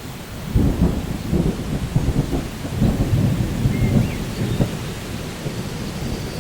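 Rainforest ambience: a low, crackling roll of thunder sets in about half a second in and fades toward the end, over steady rain. A bird chirps faintly a few times high above it.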